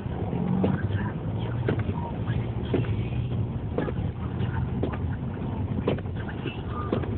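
Inside a Honda Accord driving through deep snow: a steady low drone from the engine and tyres, with knocks about once a second.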